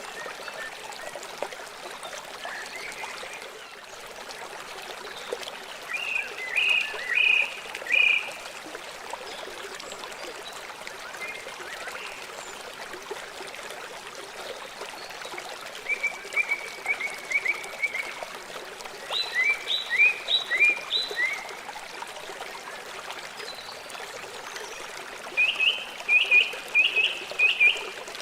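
River water flowing with a steady rushing sound. Over it, a bird chirps in four short bursts of rapid high notes.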